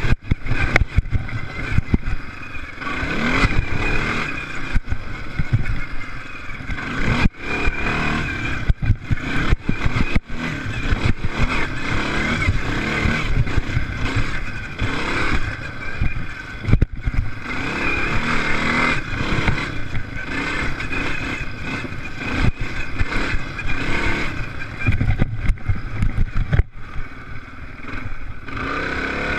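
Off-road racing engines at high revs, their pitch rising and falling as the machines accelerate and brake around a dirt track, broken by frequent brief knocks and dropouts.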